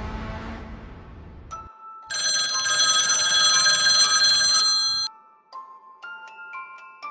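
Electronic ringing tone, loud and steady, starting about two seconds in and cutting off abruptly about three seconds later, followed by sparse single musical notes and faint clicks of horror-film sound design.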